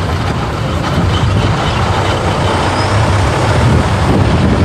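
A vehicle driving along, with a steady, loud rumble of engine and road noise.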